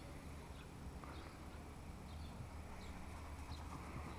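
Faint, short high chirps of small birds, recurring every half second or so over a low steady outdoor rumble.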